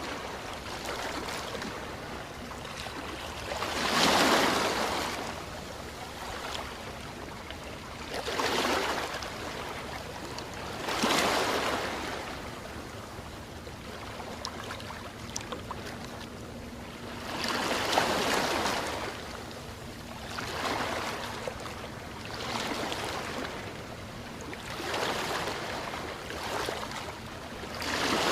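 Sea waves breaking on a beach: a steady wash of surf that swells and fades, with about eight louder breakers a few seconds apart.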